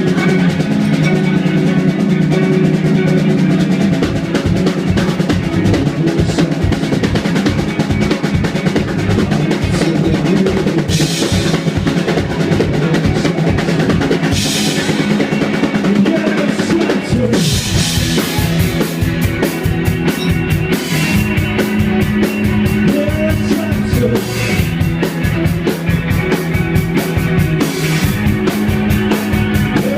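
Live rock band playing, the drum kit keeping a fast, steady beat over held low bass notes. Cymbals crash in briefly twice, then keep going from a little past halfway as the playing grows busier.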